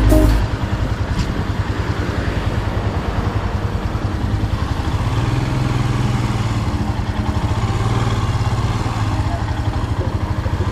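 Motorcycle engine running steadily while riding, with a fast, even pulsing note and road and wind noise.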